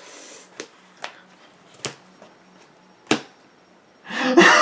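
Playing cards tapped and laid down on a tabletop: four short, sharp taps spread about a second apart. A burst of laughter starts near the end.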